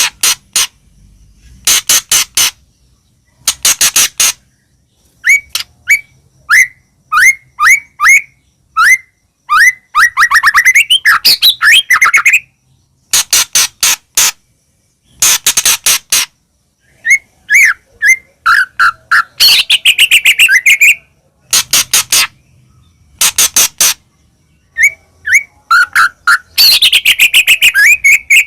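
White-rumped shama (murai batu) in full loud song: harsh rasping bursts every second or two, alternating with runs of quick whistled notes and fast rising trills.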